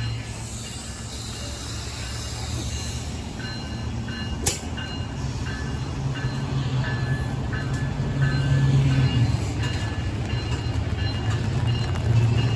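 Amtrak Pacific Surfliner passenger train running, a steady low rumble heard from inside the car, with brief faint high tones coming and going. A sharp click comes about four and a half seconds in, and the rumble grows louder toward the end.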